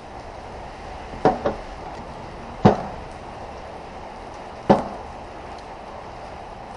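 Four short, hard knocks of parts or tools being handled during transmission work: a quick pair about a second in, then two more about two seconds apart, over a steady background hiss.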